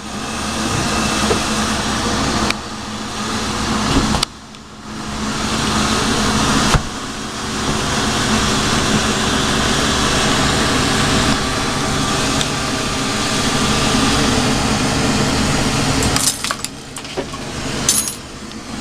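Lampworking torch flame burning with a steady rushing noise that cuts out briefly a few times. There are sharp clicks about four and seven seconds in, and light glassy clinks near the end.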